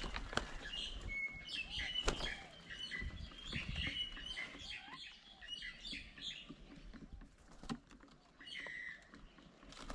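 Several birds chirping and calling with many short, overlapping chirps and whistles, with a couple of sharp knocks in the first two seconds.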